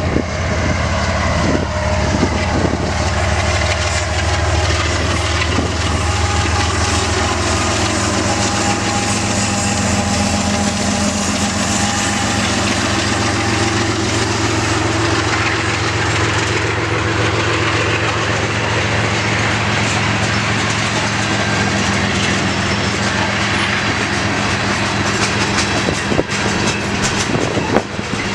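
CN mixed freight train rolling past close by: a steady, loud rumble and rattle of the cars on the rails, with a few knocks near the end.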